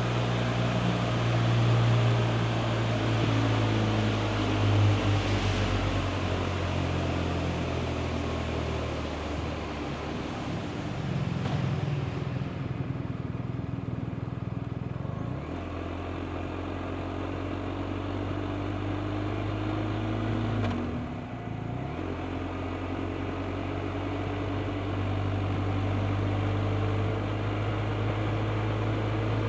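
BMW R 1250 RT's 1254 cc boxer twin running under way, with wind rush. The engine eases off for a few seconds about 10 s in and pulls again at about 15 s. It dips briefly and picks up again near 21 s.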